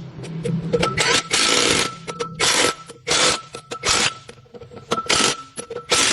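Repeated hand scraping strokes, irregular, about one to two a second, each a short harsh hiss, over a faint steady high-pitched tone.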